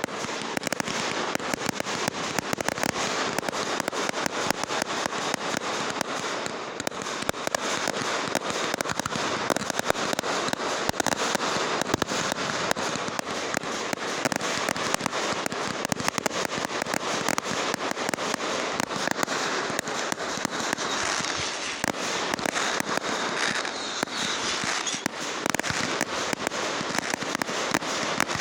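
Fireworks crackling without a break: a dense stream of small sharp pops and crackles, with louder pops scattered through.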